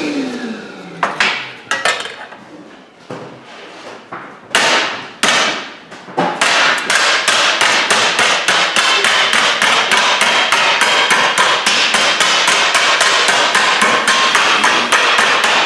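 Hammer striking sheet steel to bend it along a marked line. First come a few separate blows, then from about six seconds in a fast, steady run of about five blows a second.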